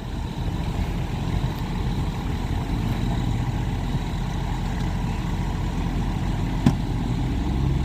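Heavy vehicle engines idling with a steady low rumble, and one brief click near the end.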